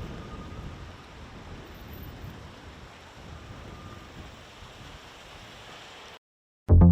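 Steady rushing wind noise across the microphone in storm footage, easing off and then cutting off suddenly about six seconds in. A short loud music sting starts near the end.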